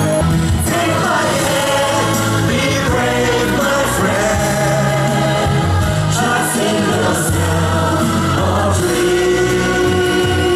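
A group of voices singing together over a backing music track with steady bass notes.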